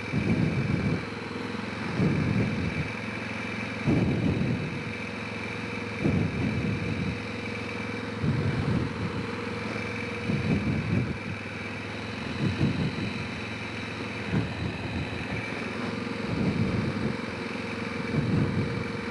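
Honda Rincon 650 quad's single-cylinder engine running, with short bursts of throttle about every two seconds rising over a steady lower running sound.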